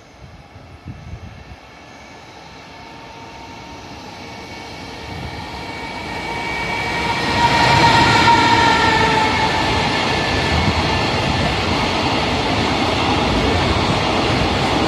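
JR Freight EF210 electric locomotive hauling a container freight train, approaching and passing through a station: it grows steadily louder, with a whine that peaks and drops in pitch as the locomotive goes by about eight seconds in, then the steady rumble of the container wagons running past on the rails.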